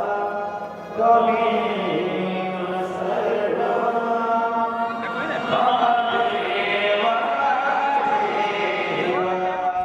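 Chant-like vocal music: sustained, gliding sung lines over a steady low drone.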